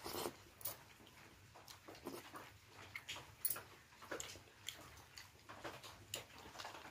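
A person eating close to the microphone: irregular chewing and short mouth clicks, the loudest about three and a half seconds in.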